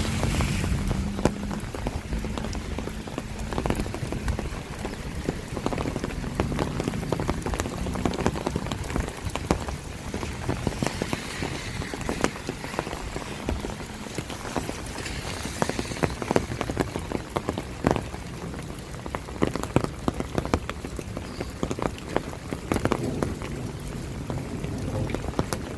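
Steady rain falling, with many sharp ticks of drops hitting close by. A low rumble at the start fades over the first couple of seconds.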